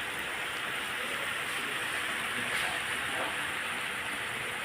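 A steady, even hissing noise with no clear rhythm or pitch.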